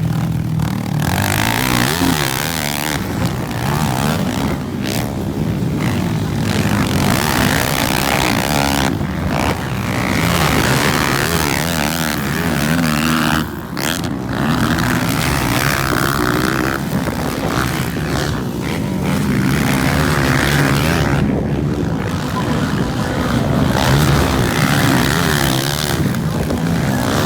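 Motocross motorcycles racing on the track, their engines revving up and down continuously with a high buzzing note.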